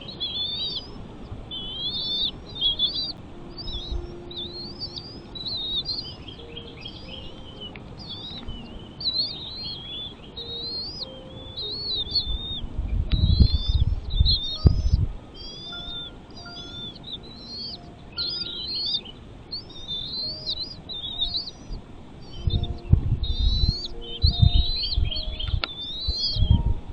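A bird chirping over and over, a near-continuous string of short, high, sweeping chirps. Low rumbling comes in around the middle and again near the end.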